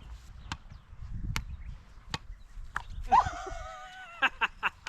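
Wooden beach paddles striking a ball in a bat-and-ball rally: sharp hits about once every 0.8 s, with a quick run of hits near the end. Wind rumbles on the microphone, and a brief high whine rises and falls about three seconds in.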